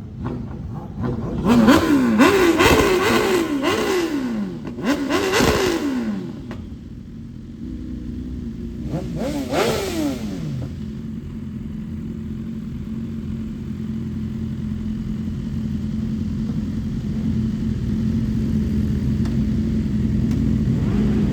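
Motorcycle engine revving in quick bursts, its pitch climbing and dropping several times, then a single falling tone about ten seconds in. After that comes a steady engine drone that slowly grows louder.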